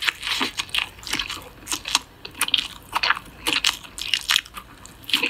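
Crunchy chewing sounds: a string of irregular crunches, two or three a second.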